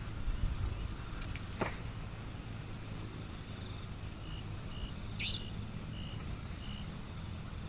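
Steady low rumble of wind and rain. There is one sharp knock about a second and a half in, and a few short, high chirps around the middle.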